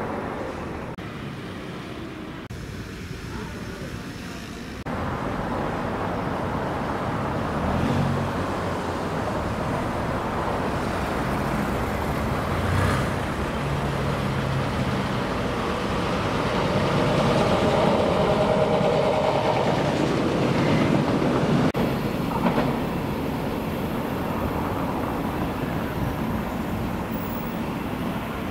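Electric multiple-unit passenger train under overhead wires coming out of a tunnel and running past, the sound stepping up about five seconds in and loudest around two-thirds of the way through, then easing off as it moves away.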